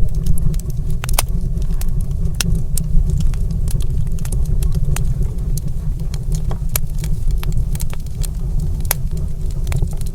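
Wood fire crackling in a stone fireplace: irregular sharp pops and snaps, several a second, over a steady low rumble.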